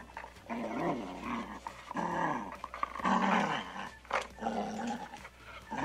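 Dog growling in a string of short growls, about one a second.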